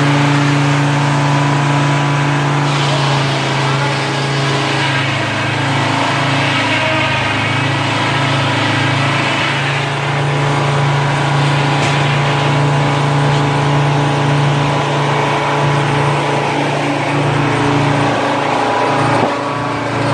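An engine running steadily, with a hissing, grinding noise above it that swells and fades several times.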